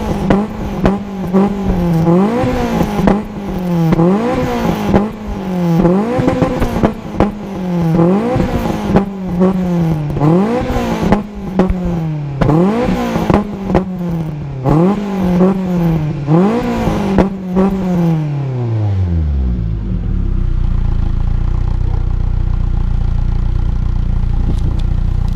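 Peugeot 106 GTi's 1.6-litre 16-valve four-cylinder engine, breathing through a Supersprint exhaust manifold and a Group N exhaust, revved in repeated quick blips at high revs, about one every two seconds. About 18 seconds in the revs fall away and it settles into a steady low idle.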